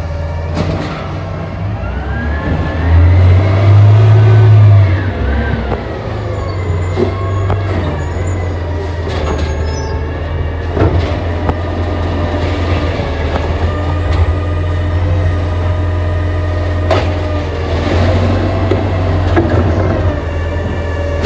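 Garbage truck running at close range, its engine louder for a couple of seconds about three seconds in, with whining pitch glides over the steady engine hum and a few sharp clunks.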